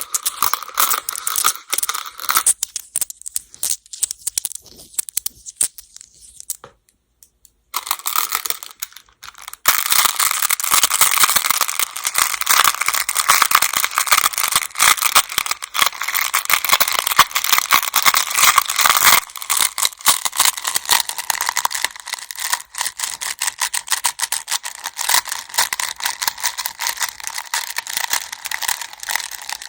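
Go (baduk) stones clattering against one another: scattered clicks at first, a brief pause, then from about ten seconds in a dense, continuous rattle of many stones.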